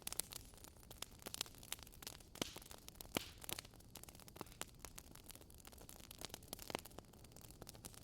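Wood fire crackling in a fireplace: irregular pops and snaps over a soft steady hiss, with a couple of sharper pops around the middle.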